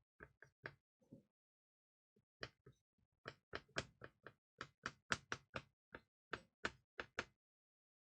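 A quick, irregular series of faint taps or knocks, about twenty, sparse at first and then coming several a second before stopping about a second before the end.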